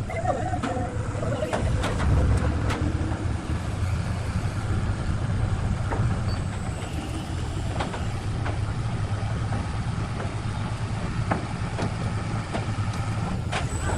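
A heavy engine running steadily with a low rumble, with scattered knocks and clicks over it.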